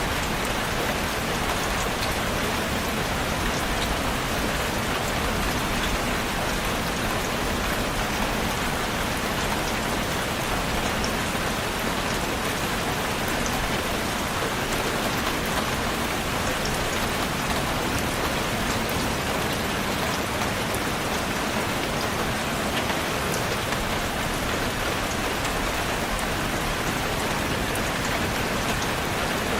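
Steady rain falling, a dense even hiss with scattered drop ticks, pattering on a surface.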